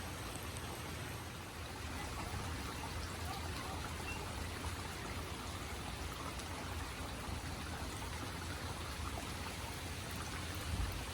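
Heavy rain falling, a steady even hiss, over a low rumble, with a brief low bump near the end.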